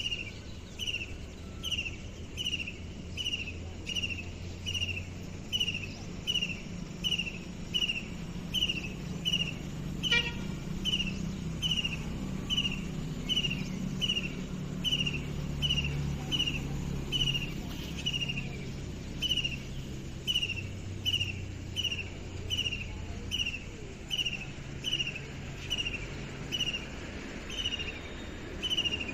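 A bird on a wire repeating one short, downslurred whistled call, evenly about four times every three seconds, over a low steady background rumble.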